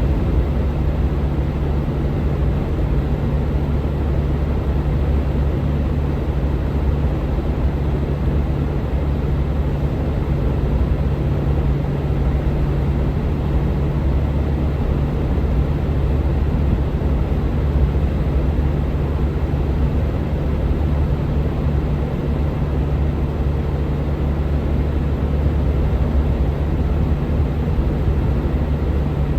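Steady drone of a vehicle driving at constant speed, a low engine hum with road noise, unchanging throughout.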